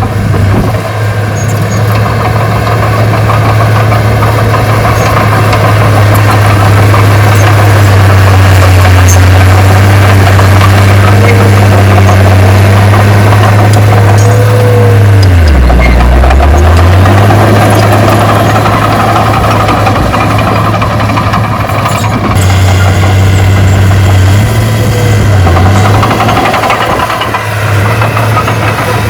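Diesel engine of heavy earthmoving equipment running steadily with a deep hum. About halfway through, the engine speed drops sharply for a moment, then picks back up.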